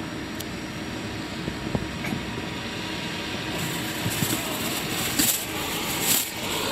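Steady vehicle noise heard from inside a truck cab, with the hiss growing stronger about halfway through.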